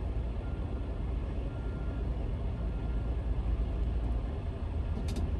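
Low, steady rumble of a semi-truck driving, engine and road noise.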